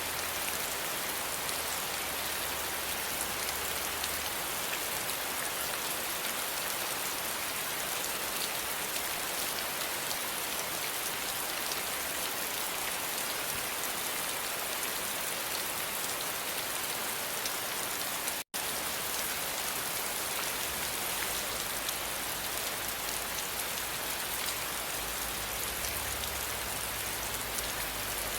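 Steady rainfall: an even hiss of many fine drops on surfaces that does not change. About two-thirds of the way through, the sound cuts out for a split second and then resumes.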